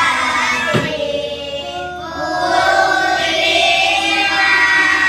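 A group of children singing together, a choir-like song.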